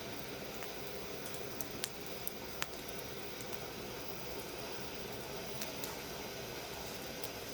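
Wood fire burning in a steel fire-pit stand: a steady hiss with a few single sharp crackles, most in the first three seconds.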